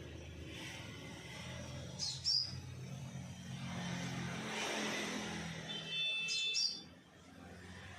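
Scarlet minivet calling: two short clusters of high, down-slurred chirps about four seconds apart, over a steady low rumble of traffic or engine noise.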